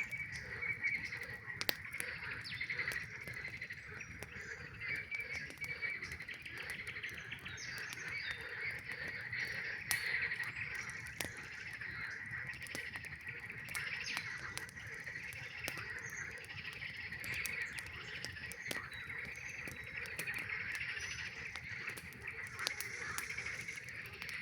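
A dense chorus of frogs calls continuously, many voices blending into a steady high trilling. Sharp crackles from a campfire pop out sporadically over it.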